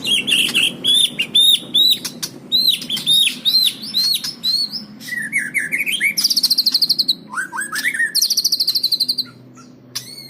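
White-rumped shama (murai) singing a loud, varied song. It opens with a fast run of repeated arched whistles, then moves into rapid high trills mixed with lower slurred phrases, and pauses briefly near the end.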